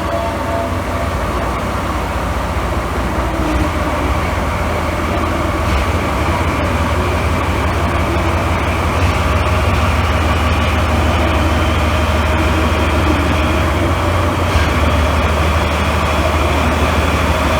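DE10 diesel-hydraulic locomotive's engine running with a steady low drone that grows gradually louder.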